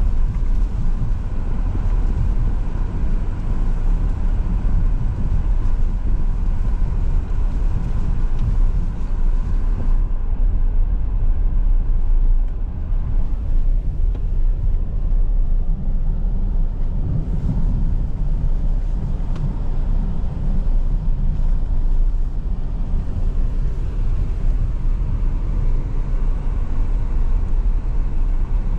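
Car driving: a steady low rumble of engine and tyre noise.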